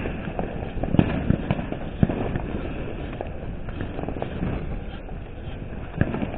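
Scattered firework pops and firecracker crackles, with sharper bangs about a second in, two seconds in and near the end, over a steady background rush.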